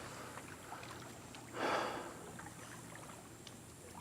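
Small waves lapping against a rocky shoreline, faint and steady, with one brief louder wash about a second and a half in.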